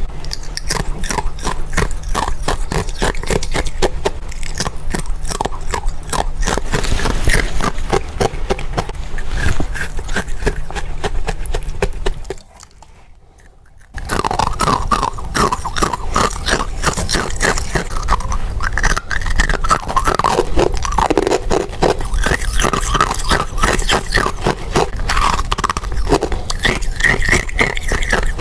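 Freezer frost being bitten and chewed in quick succession, a dense run of crisp crunches, close up. The crunching stops for about a second and a half roughly halfway through, then resumes.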